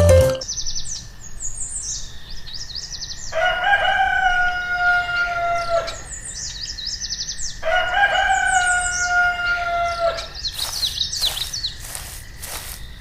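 A rooster crowing twice, each crow a long call of about two and a half seconds, over small birds chirping, with a run of quick ticks near the end.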